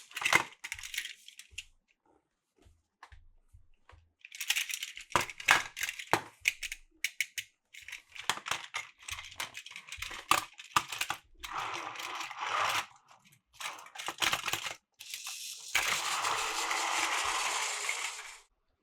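Small hard plastic pieces clicking and clattering as they are handled, with bursts of rustling; near the end a steady rushing noise runs for about two and a half seconds and cuts off suddenly.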